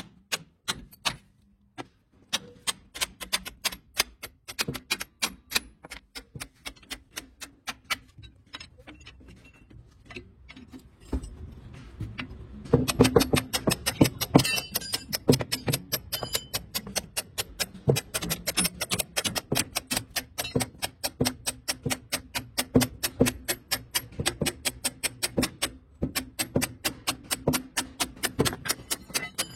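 Sharp metal strikes repeating in a fast, even rhythm, several a second. From about halfway they grow louder and a low steady hum joins in.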